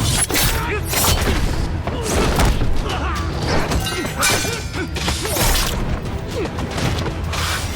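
Action-scene soundtrack: dramatic music under a rapid run of crashes, thuds and shattering impacts.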